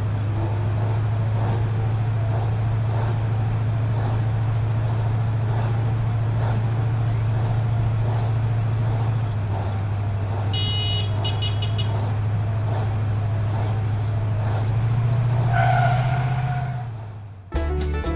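Small motor of a homemade mini tractor running with a steady low hum; near the end it rises in pitch and then stops abruptly. A brief burst of high beeps sounds about ten and a half seconds in.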